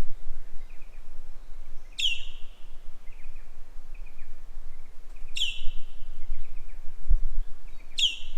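An unidentified bird calling the same loud call about every three seconds, four times: a sharp whip-like sweep falling from very high, ending in a short held whistle. Fainter chirps sound in between, over a steady low rumble of wind noise.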